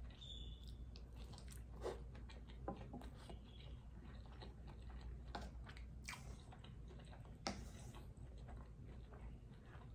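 A person chewing food with their mouth full, close to the microphone, with a few sharper crunches and clicks among the chewing.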